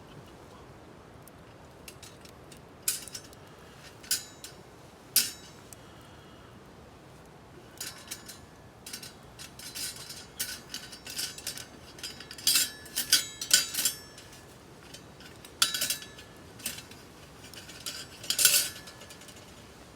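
Metal camp cookware clinking and knocking as it is handled: a few single sharp clinks, then a busier run of clatter, some strikes leaving a short metallic ring.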